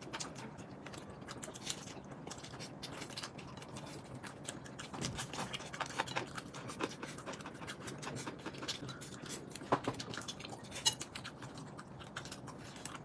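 Close, quiet eating sounds: chewing and small wet mouth clicks, scattered and uneven, with one slightly louder click about ten seconds in.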